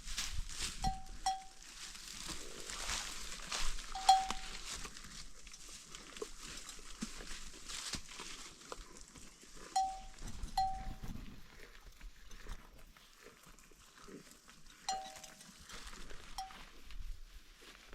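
An animal's bell clanking about seven times at irregular intervals, sometimes twice in quick succession, as the animal moves, over a steady hiss that fades about halfway through.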